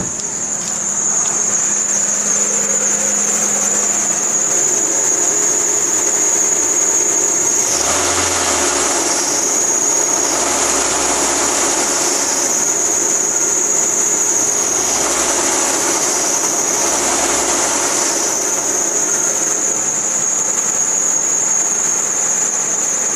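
Ford Tierra's engine accessory drive belt squealing in a steady high-pitched note with the air conditioning switched on, over the running engine. A broader rushing noise swells and fades several times in the middle.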